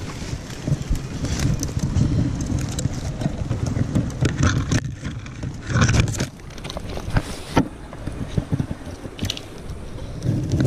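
Wind rumbling on the microphone, with scrapes and knocks of handling noise as the camera-holder works with his hands.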